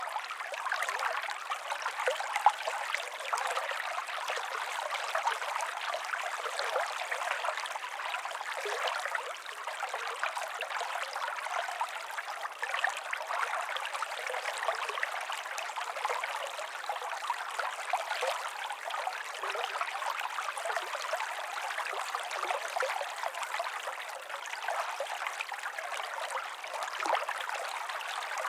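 Running water: a small stream trickling and babbling steadily, with no deep rumble.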